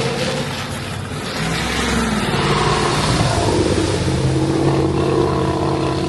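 Motor vehicle engine running, its pitch shifting up and down once or twice as it changes speed, over a steady rush of traffic-like noise.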